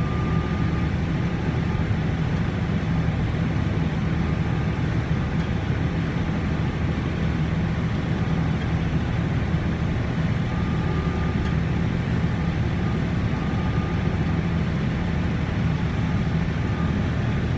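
Harvest machinery's diesel engine running steadily, a continuous low drone heard from inside the cab, with a faint high whine that comes and goes.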